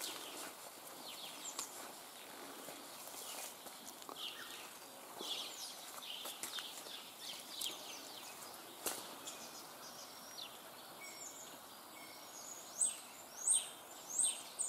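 Small songbirds calling and singing in short high chirps, with a quick run of sharp, falling high notes near the end, over a faint steady outdoor hiss.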